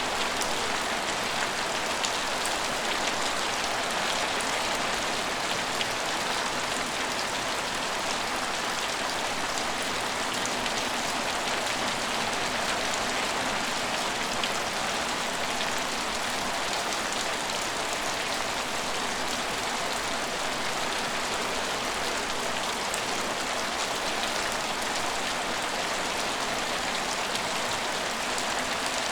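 Steady rain falling: an even, unbroken hiss of dense drops, with faint individual drop ticks scattered through it.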